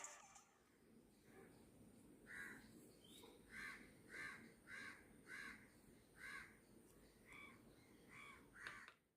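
A bird calling over and over: about ten short, faint calls, roughly one every half second to a second.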